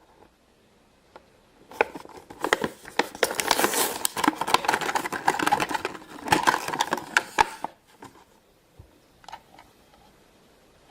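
Crinkling plastic and sharp clicks, as of toy packaging being handled, dense for about five seconds and then a few last clicks.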